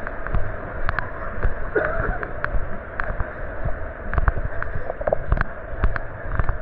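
Footsteps and small clicks and knocks from a camera carried while walking, over a steady outdoor background hiss, with a brief pitched sound about two seconds in.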